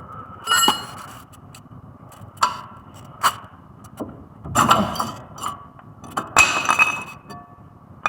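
Metal tools and brake parts clinking and knocking against each other in a handful of separate sharp, ringing clanks, the loudest bunches about four and a half and six and a half seconds in.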